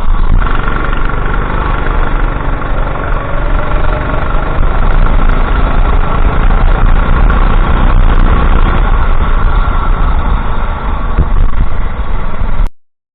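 Go-kart engine running steadily, loud, with a strong low rumble; the sound cuts off suddenly near the end.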